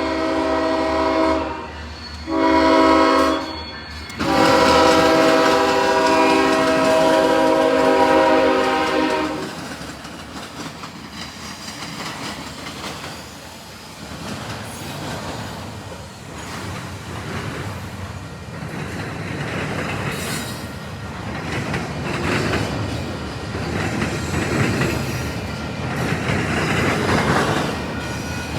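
Freight locomotive air horn sounding: the end of one blast, a short blast, then a long blast of about five seconds. It is followed by the intermodal train rolling past, its wheels clattering rhythmically over the track and the diamond crossing.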